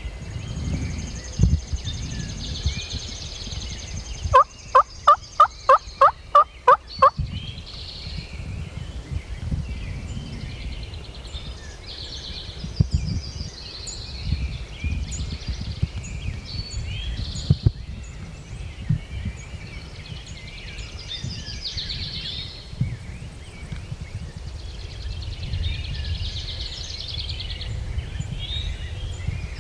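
A run of about eight turkey yelps, evenly spaced at roughly three a second, a few seconds in, with songbirds chirping throughout.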